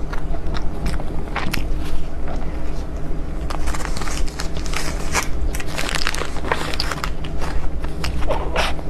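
Close-miked eating of desserts: irregular crisp bites and crackly chewing sounds, many small sharp clicks in quick succession, over a steady low hum.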